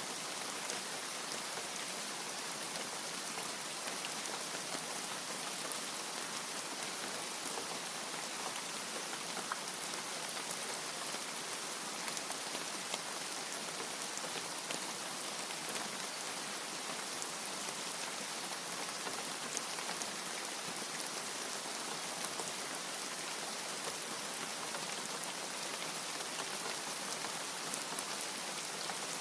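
Steady rain: an even hiss of rainfall dotted with the faint ticks of single drops striking.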